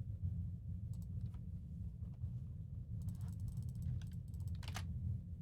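Computer keyboard keys and mouse clicks: a few scattered clicks, a quick rattle of keystrokes about three seconds in, and another couple of clicks near the end, over a steady low hum.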